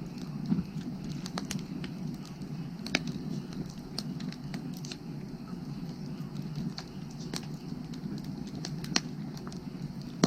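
Firewood burning, crackling with scattered sharp pops, the loudest about half a second, three seconds and nine seconds in, over a steady low rumble.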